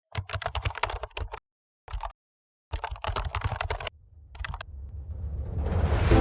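Rapid typing clicks in four short runs with pauses between them, then a rising swell of noise that builds toward music near the end.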